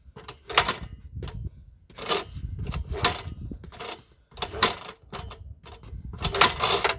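UD-15 single-cylinder engine being turned over by hand, about five short mechanical whirring strokes, while the removed spark plug is tested for spark.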